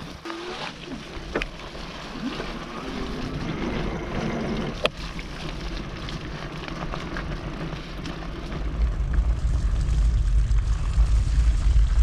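NCM Aspen e-bike being ridden along a trail: tyre and drivetrain noise with scattered clicks and a faint motor whine. A heavy low rumble builds about eight and a half seconds in.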